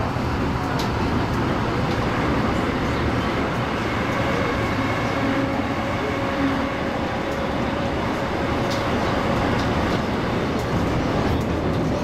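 Interior of an MTR East Rail MLR (Metro-Cammell) electric multiple-unit train running: a steady, even rumble of wheels and running gear, with faint steady whining tones through the middle and a few sharp clicks.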